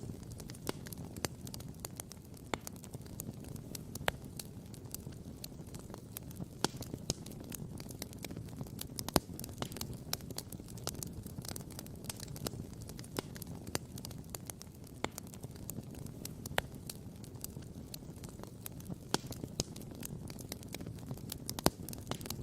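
Wood campfire crackling and popping: irregular sharp pops, the loudest about nine seconds in and again near the end, over a steady low rumble.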